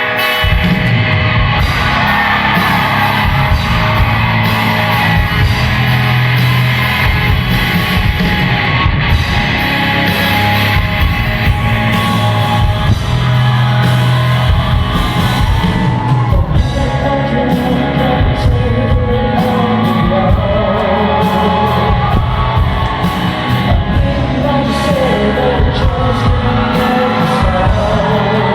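A rock band playing live, with sung vocals over drums and a heavy low end.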